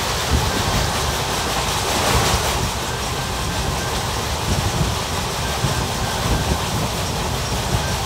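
ICF passenger coach running along the track: a steady rumble of wheels on rails with irregular clacks.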